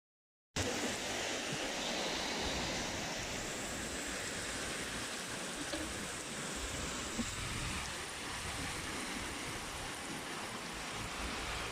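Heavy rain falling, a steady hiss that cuts in suddenly about half a second in.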